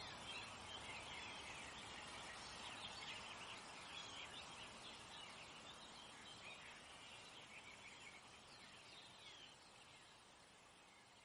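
Many small birds chirping over a faint steady hiss, fading out gradually toward the end.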